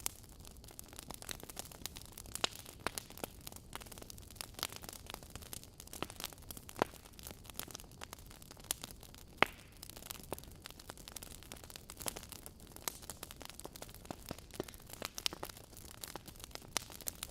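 Wood fire burning in a fireplace, with logs crackling: irregular sharp pops and snaps over a soft steady hiss, one louder pop about halfway through.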